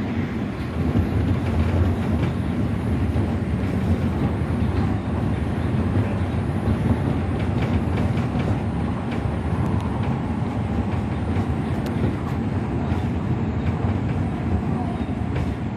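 Odakyu 3000-series electric commuter train running at speed, heard from just behind the cab: a steady rumble of wheels on rail with occasional faint clicks over rail joints. An oncoming train passes close alongside at the start.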